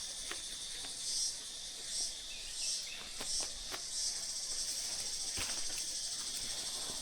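A chorus of insects, a steady high-pitched shrill that swells and eases in repeated pulses about twice a second in the first half. A few faint sharp clicks are heard now and then.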